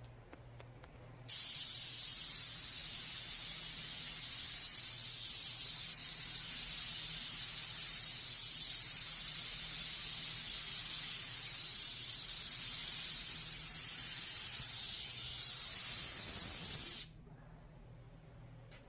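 Air-powered bedliner spray gun spraying a texture coat of bedliner: a steady, loud hiss that starts sharply about a second in and cuts off near the end, with a faint low hum underneath.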